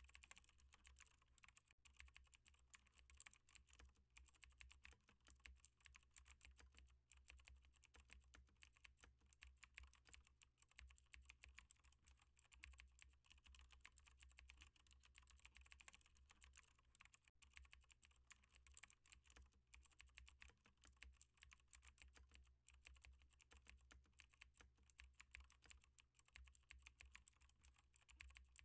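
Continuous typing on a computer keyboard: a dense, unbroken stream of faint key clicks over a low steady hum.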